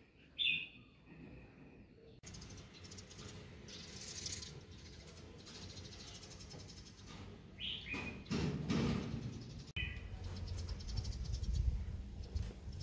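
A few short bird chirps, one about half a second in and two more late on, over a steady outdoor background hiss that changes abruptly twice.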